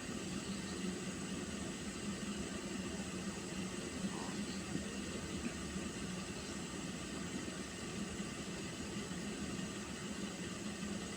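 Water being boiled, giving a steady hiss with a low rumble underneath.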